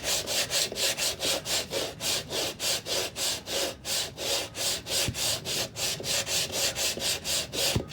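A hand tool scraped back and forth along a teak deck seam, raking out the old caulking in rapid, even strokes, about four or five a second, that stop just before the end. The seam is being cleaned out before it is re-caulked.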